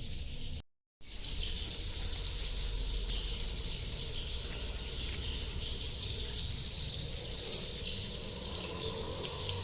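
Swiftlets chirping: a dense, high, continuous twittering, with a sudden break just under a second in before it resumes.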